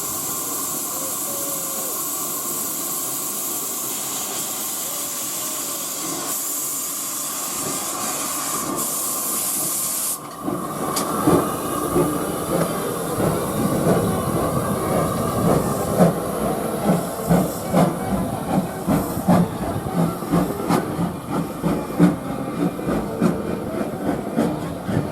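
Steam locomotive hissing steadily as steam escapes. About ten seconds in, the hiss cuts off abruptly and the train's clatter and rumble take over, uneven and knocking.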